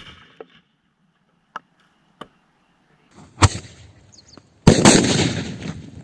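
Firecrackers going off: a few small pops, then a loud bang about three and a half seconds in and a louder blast near the end, whose hissing tail fades away.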